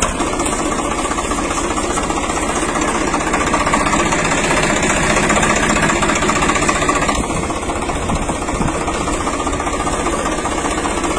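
A motor running steadily with a fast, even knocking rhythm; it cuts off suddenly at the end.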